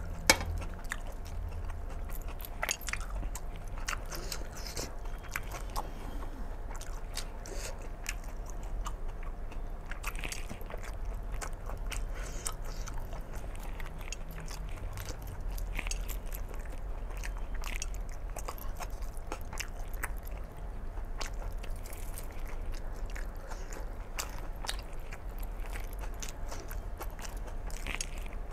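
A person chewing and eating by hand: irregular wet mouth clicks and smacks while eating mutton curry with rice.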